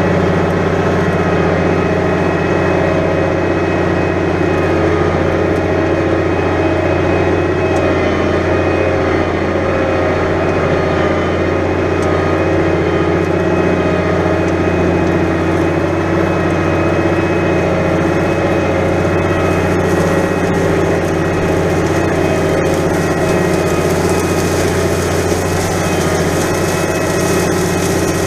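New Holland 100-90 tractor's diesel engine running at a steady, even speed while pulling a plough through heavy, wet ground.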